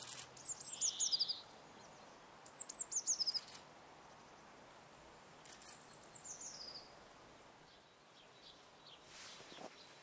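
A small bird singing a high, thin song: short phrases of quick notes that fall in pitch, three times a few seconds apart.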